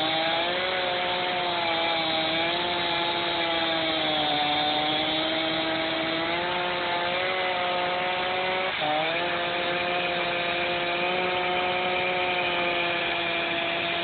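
Chainsaw running at full throttle while cutting a log. Its pitch sinks a little under load around four to five seconds in and dips briefly about nine seconds in, otherwise holding steady.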